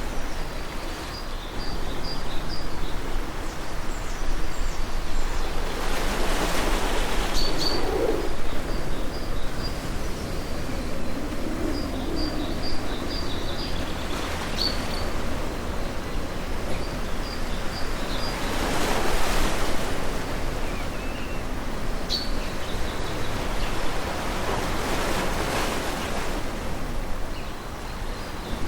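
Ocean waves washing in against a steady surf noise, swelling three times as waves break. Short high chirps of birds come through faintly throughout.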